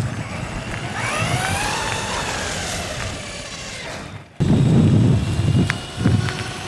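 Brushless electric motor of a Traxxas Raptor R VXL RC truck whining, its pitch rising and then falling as the truck speeds up and slows, over a steady hiss. Just after four seconds the sound cuts off abruptly and gives way to a loud low rumble.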